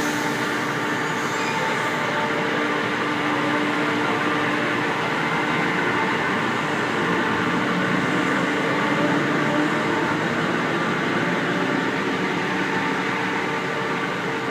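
Train standing at a station platform with its equipment running: a steady mechanical hum with several held tones.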